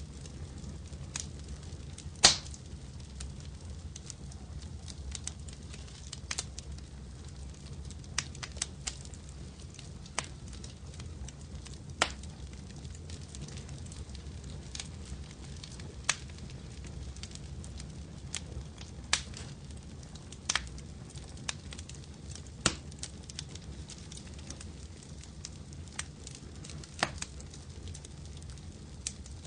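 Wood fire crackling in a fireplace: scattered sharp pops and snaps over a low steady rumble, with one louder pop about two seconds in.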